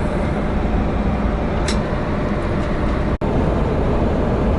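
Steady engine and cabin noise inside a private jet, with a faint steady whine over the low rumble. The sound drops out for an instant about three seconds in.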